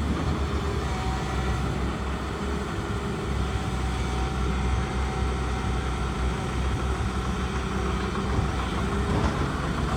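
Heavy diesel engine of an excavator running steadily, a continuous low rumble.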